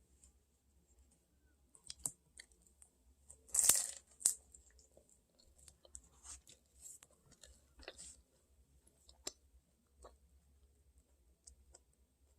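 Scattered light taps and clicks, with one brief crunching, tearing rustle about four seconds in.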